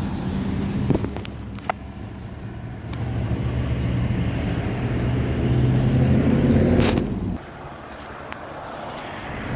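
A motor vehicle engine running close by with a steady low hum. It grows louder, then cuts off abruptly about seven seconds in, with a couple of light clicks early on.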